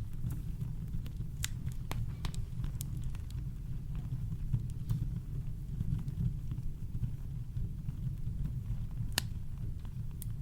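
Campfire crackling: scattered sharp snaps and pops over a steady deep rumble of brown noise, with one louder pop near the end.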